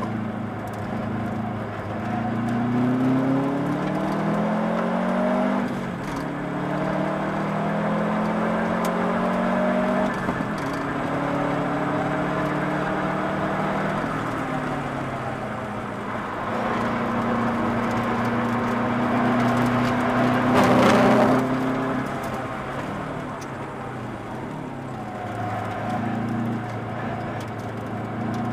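Subaru Impreza WRX's turbocharged flat-four engine heard from inside the cabin under track driving. Its pitch climbs as it pulls hard, drops back at each gear change or lift, and holds steady between. About two-thirds of the way through comes a brief, louder rush of noise.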